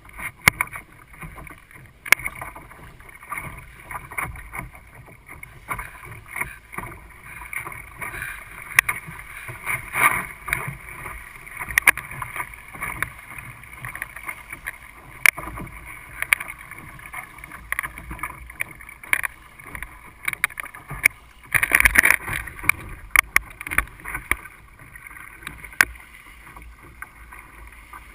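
Water splashing and slapping against the hull of a small Sunfish sailboat under way, with frequent sharp, irregular knocks and splashes and a louder burst of splashing about 22 seconds in.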